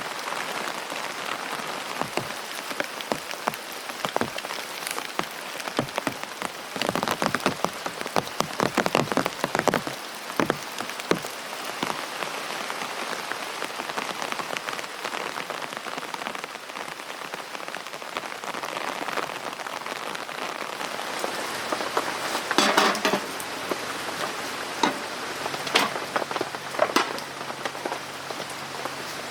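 Steady rain falling on a tent, an even hiss dotted with sharp individual drop hits, with flurries of louder hits about a quarter of the way in and again near the end.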